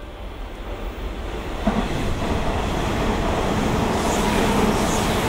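Electric commuter train passing through the station without stopping. The rumble of its wheels and motors swells over the first couple of seconds as it comes in, then holds steady and loud as the cars run past.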